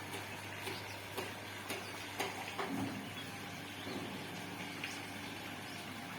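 Construction site background: a steady low hum under a noisy haze, with scattered light knocks and taps at irregular intervals.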